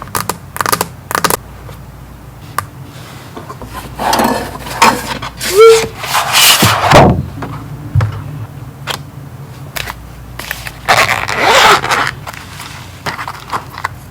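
A stylus tapping and scratching across an iPad Pro fitted with a Paperlike matte screen protector: a few quick taps at the start, then scratchy writing strokes, with a short squeak in the middle.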